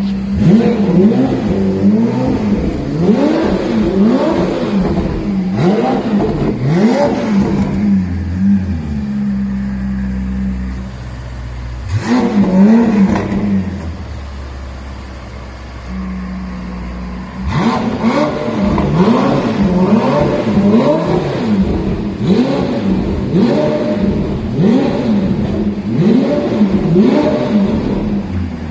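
Ferrari F8 Tributo's twin-turbo V8 idling through its newly fitted aftermarket exhaust and revved in rapid throttle blips, each rising and falling in pitch. A dense run of blips, a lull at idle with one single blip, then another dense run near the end.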